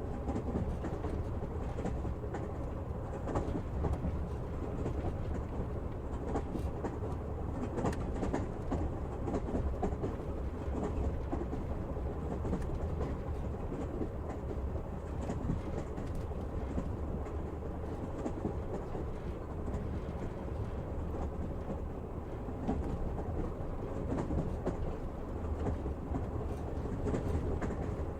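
Passenger train running steadily, heard from inside the carriage: a continuous low rumble of wheels on the rails, with scattered sharp clicks of the wheels over rail joints.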